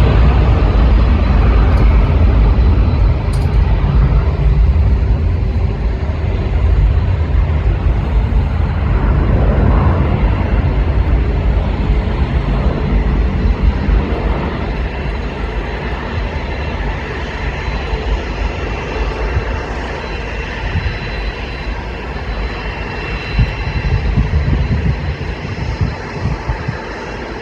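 Jet engines of a Boeing 747-8F freighter on takeoff, a deep, loud rumble that slowly grows fainter as the aircraft draws away.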